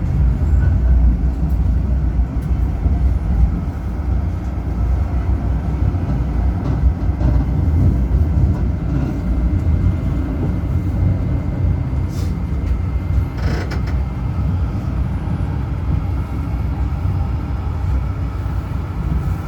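Tram running along the track with a steady low rumble. A faint high steady whine runs through the first half or so, and there are a couple of short clicks about two-thirds of the way through.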